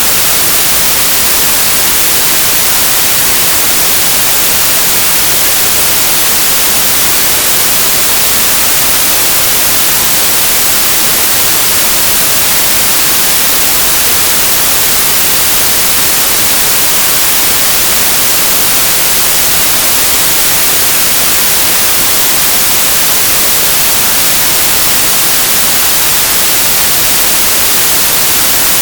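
Synthesised white noise: a loud, steady, unbroken hiss with a flat power spectrum, bright and strongest in the highs.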